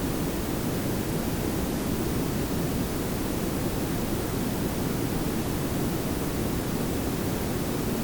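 Layered pink and brown noise: a steady, even hiss over a heavier low rumble, with no change in level.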